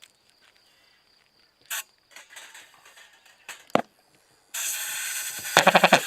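A model pulsejet engine starting up. After a few quiet seconds with only a couple of brief noises, a loud steady hiss begins about two-thirds in, and near the end rapid popping comes as the engine starts firing.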